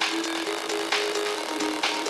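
Tech house music from a DJ set, with the deep bass dropped out: a synth line steps between a few notes under a sharp noisy hit that lands about once a second.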